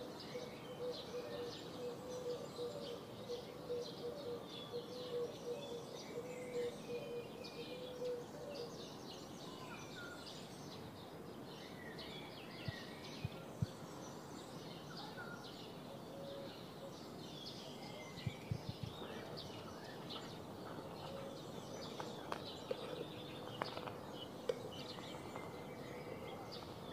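Birds chirping and twittering in the background, with a faint steady hum during the first several seconds and a few light clicks and knocks later on.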